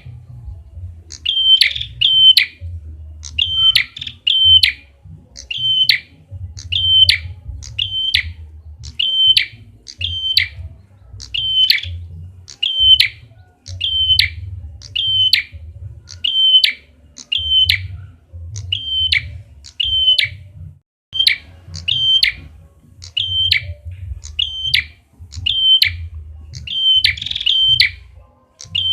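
Prenjak kepala merah calling: short, sharp, high notes repeated about once a second, now and then in quick pairs, used as a lure call. A low rumble runs underneath.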